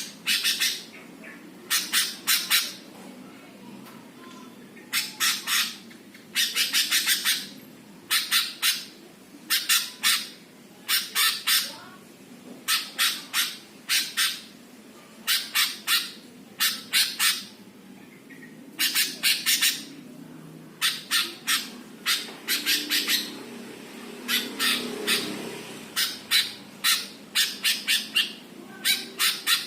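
Green leafbird (cucak hijau) calling: sharp, harsh notes in quick groups of two to five, one group every second or two.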